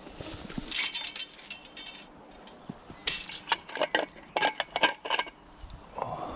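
Small pieces of scrap metal clinking and rattling together as they are handled. The clinking comes in two clusters, about a second in and again from about three to five seconds.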